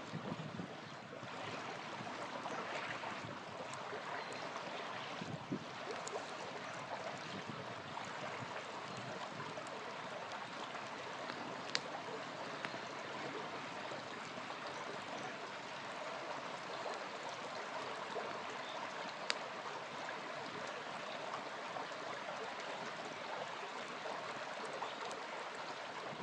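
Small river flowing in a steady rush, with a few sharp pops from a crackling campfire, the clearest about twelve and nineteen seconds in.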